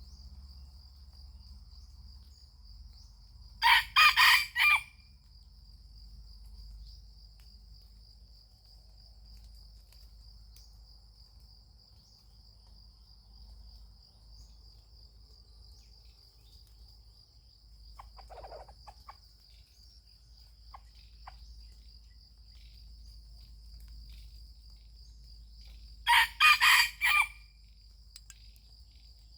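A rooster crows twice, each a short crow of about a second, some twenty seconds apart, over a steady high-pitched insect trill.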